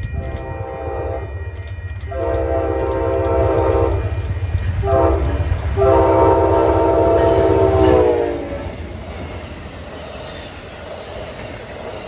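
Train horn sounding the grade-crossing pattern: long, long, short, long, with several notes sounding together. Its pitch drops during the short and final blasts as the train passes. The low rumble of the passing train fades away after the last blast.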